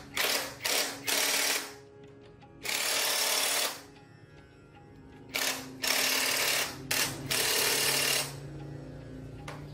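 A power tool running in repeated short bursts, seven in all, each under a second to about a second long, with background music underneath.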